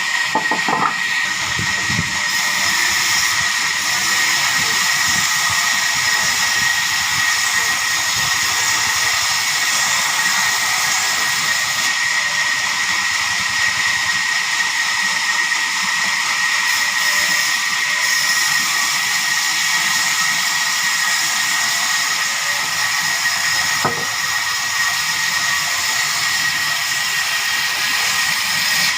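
Sawmill saw running through timber: a steady high whine over a constant hiss.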